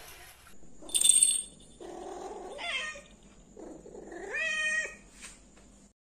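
A cat meowing twice, two drawn-out meows, the second one longer, with a pitch that rises, holds and then drops; a short sharp high-pitched sound about a second in is the loudest moment.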